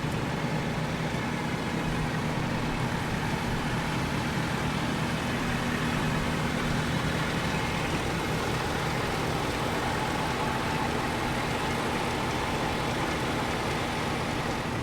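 Four-wheel-drive truck running steadily, an even engine hum with steady road noise.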